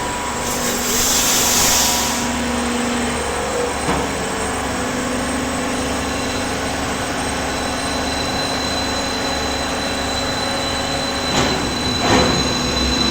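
Hydraulic baling press's power unit running with a steady hum, with a hiss about a second in and a couple of sharp knocks near the end.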